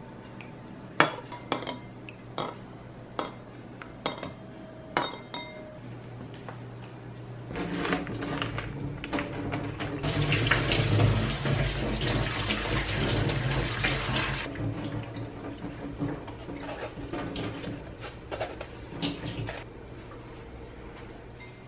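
A metal spoon clinks sharply against a ceramic bowl about seven times. Then a kitchen tap runs into a stainless steel sink as noodles are rinsed in a metal mesh strainer, loudest for about four seconds, followed by quieter splashing and light clinks of the strainer being shaken.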